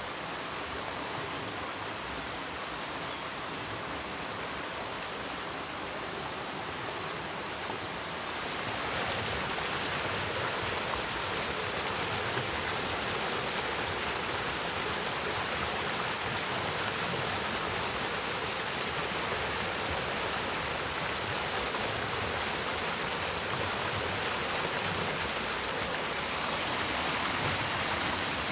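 Stream water flowing, a steady rush that gets louder about eight seconds in and then holds.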